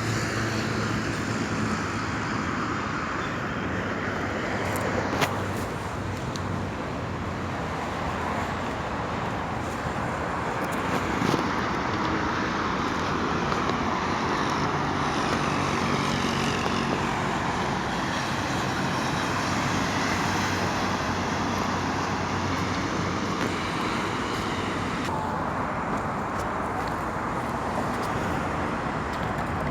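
Steady road traffic noise with cars passing, and a couple of brief clicks.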